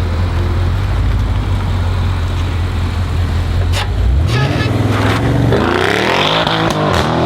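Audi RS7's twin-turbo V8 running steadily at low revs for about four seconds. It then revs up with a rising pitch, and near the end its pitch swings up and down several times.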